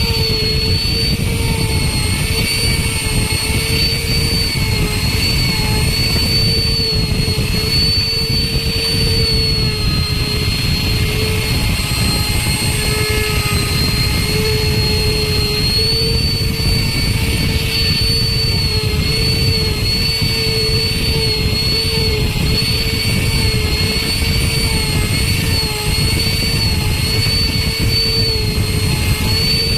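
Electric wood router running at high speed with a steady high whine, its pitch dipping slightly now and then as the bit cuts into wood.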